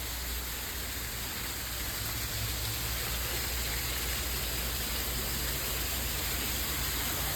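Steady hissing, rushing noise like spraying water or rain, with a low hum underneath. It stays even throughout, with no separate knocks or calls.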